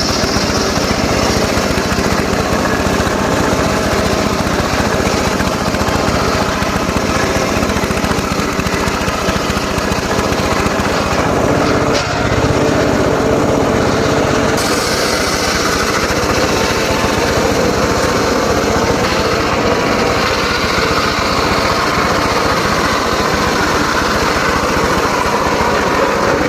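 Small engine-driven saw running steadily and loudly as it cuts mahogany, with the pitch wavering under load and a brief knock about twelve seconds in.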